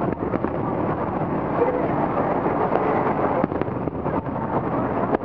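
Aerial firework shells bursting some way off: several sharp bangs and crackles over a steady background din.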